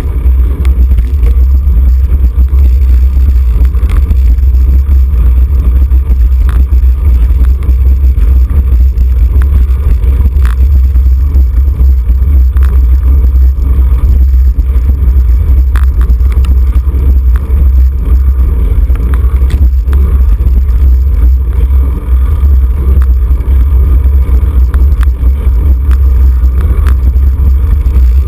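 Heavy, steady wind rumble buffeting the microphone of a camera riding along on a racing road bicycle at speed, with occasional faint clicks.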